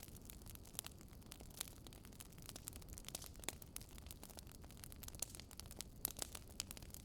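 Wood fire crackling: irregular sharp pops and snaps over a faint, low, steady rumble of burning, with a cluster of louder pops about six seconds in.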